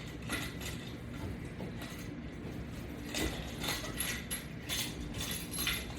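Irregular metallic clicks and clinks of exercise-strap hardware being handled as the straps on the latch bar are changed, with a few brighter metal jingles in the second half.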